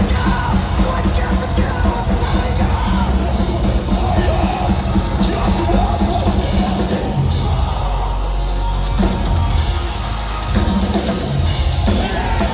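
Metalcore band playing live at full volume: pounding drums and screamed vocals over heavy rock instruments. The band thins out for a moment partway through, leaving a low bass, before the full sound comes back.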